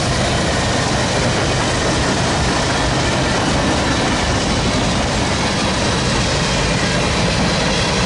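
Cars of a BNSF mixed freight train rolling past, a steady, loud noise of steel wheels running on the rails.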